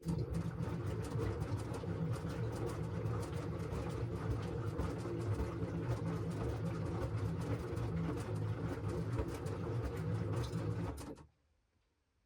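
LG washing machine running its wash cycle: the drum motor hums and the load churns with many small knocks, then the drum stops suddenly about 11 seconds in, the pause between turns.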